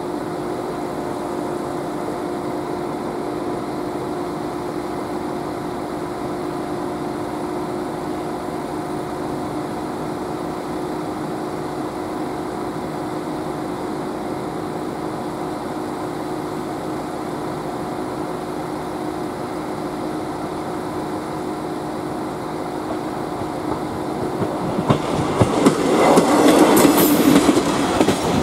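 A steady drone with a constant low hum. About 25 seconds in, a train comes up to the level crossing, growing loud near the end, with wheels rattling and clicking over the rails.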